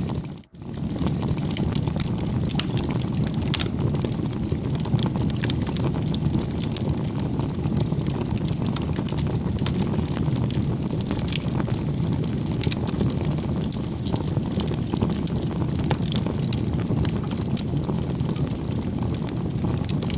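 Campfire burning, a steady low rumble of flames with many small crackles and pops. The sound drops out for a moment about half a second in, then carries on.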